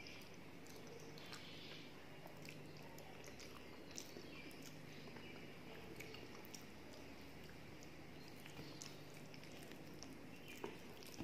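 Faint close-up chewing of soft khichuri (rice and lentils), with scattered small wet clicks and smacks of the mouth and the soft squish of fingers mixing the food on the plate.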